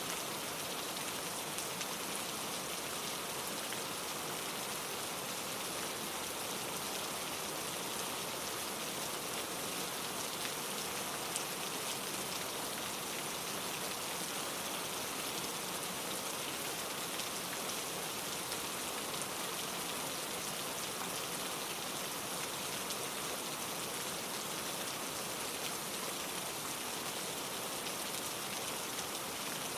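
Steady rain falling and pattering on leaves, a dense even hiss of many small drop impacts with no distinct events standing out.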